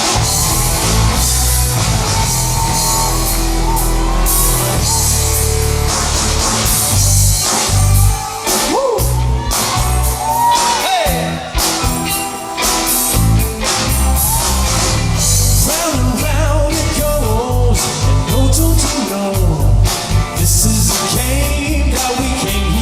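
Live rock-style band music with a singer, a steady drum beat and electric guitar.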